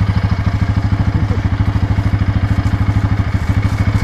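ATV engine idling steadily, an even, rapid low putter with no change in speed.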